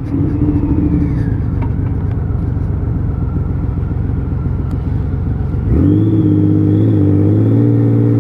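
Honda Valkyrie 1500's flat-six engine running under way with wind rush. About six seconds in the throttle is opened: the engine note rises quickly and then holds louder and steady.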